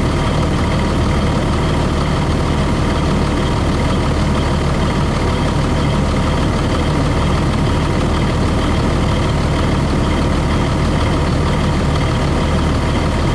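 Engine idling steadily with a deep, even note, still warming up from a cold start.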